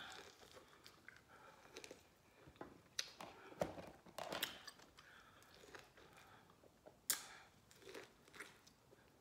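A person biting into and chewing fresh lemon wedges: quiet wet mouth sounds broken by a few short, sharp clicks.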